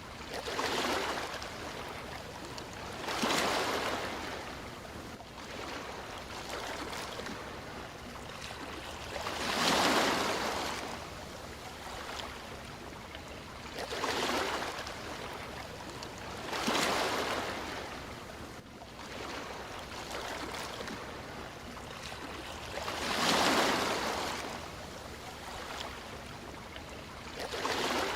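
Sea waves breaking and washing onto the shore, a swell of hiss every few seconds over a steady background of surf.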